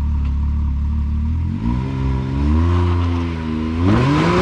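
Side-by-side UTV engine idling, then revved as the machine tries a rock ledge. The pitch rises and falls about a second and a half in, then climbs again harder near the end with a loud rush of noise.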